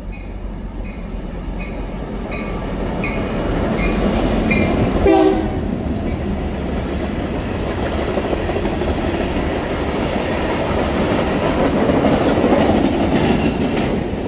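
Three EMD GP38-2 diesel-electric locomotives, 16-cylinder two-stroke engines, running as they pass beneath, with the bell ringing at about two and a half strokes a second until a short horn toot about five seconds in. Then a string of covered hopper cars rolls past, wheels clacking over the rail joints, growing louder toward the end.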